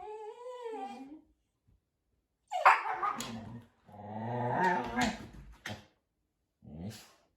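A dog grumbling and whining in four drawn-out calls, the loudest about two and a half seconds in and the longest just after it.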